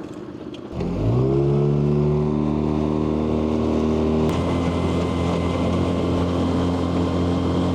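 Small 9.9 hp outboard motor comes up to speed about a second in and then runs steadily under way. About four seconds in a click is followed by a slight change in its pitch, and it keeps running steadily.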